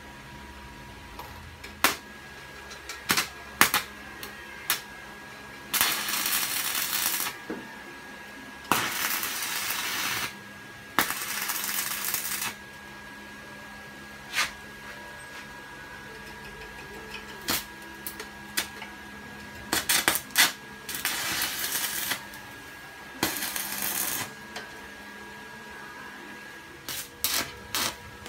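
Stick (arc) welder laying short tack welds on steel tubing: five bursts of crackling hiss, each a second or so long, with sharp metallic clicks and taps between them, over a steady hum.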